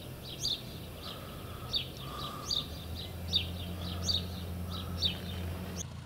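A small bird chirping repeatedly, short high falling chirps about twice a second, over a faint steady low drone of a distant light-aircraft engine that grows a little louder about halfway through.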